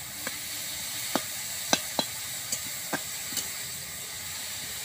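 Grated papaya frying in mustard oil in a metal kadai with a steady sizzle, while a metal spatula stirs it, knocking against the pan about seven times in the first few seconds.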